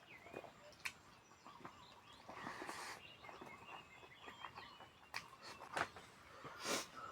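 Faint, scattered mouth noises from eating, short clicks and smacks with a couple of brief noisy bursts, over birds chirping in the background.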